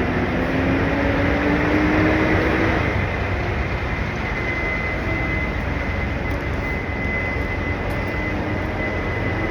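Steady rumble of semi-trucks' diesel engines running, with one engine note rising slightly over the first three seconds.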